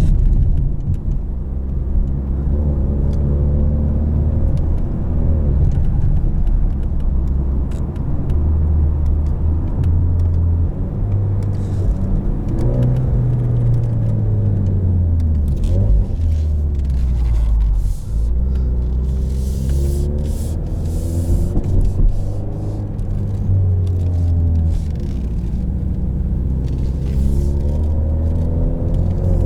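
2020 Ford Mustang's EcoBoost turbocharged four-cylinder running through its active valved exhaust under way. Its pitch climbs and falls back several times, as the car accelerates and shifts, with a short break about eighteen seconds in.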